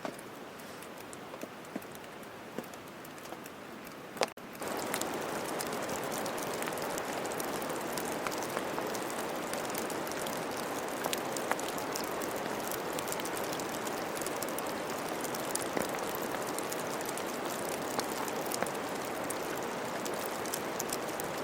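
Rain falling, a steady hiss with many individual drops ticking. It becomes suddenly louder about four seconds in and stays steady after that.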